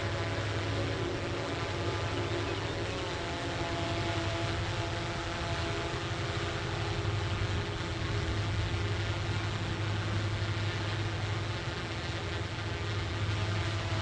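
A distant diesel engine drones steadily, with a low hum and several steady tones above it.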